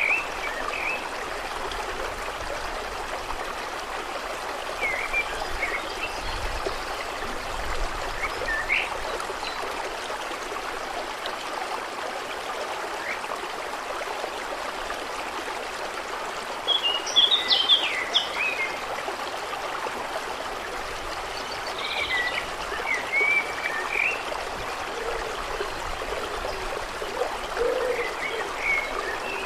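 Water trickling steadily, with short bird chirps now and then and a quick burst of chirping about halfway through.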